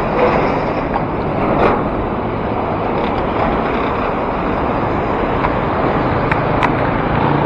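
Steady rushing noise of road traffic and wind while riding a bicycle along a city road, with a few short clicks.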